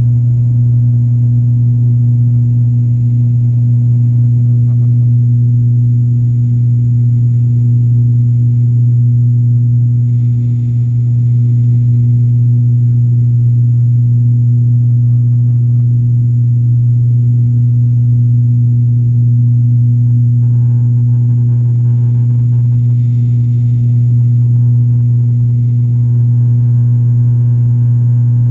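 Airplane in flight, heard from inside the cabin: a loud, steady low drone with a strong humming tone that does not change.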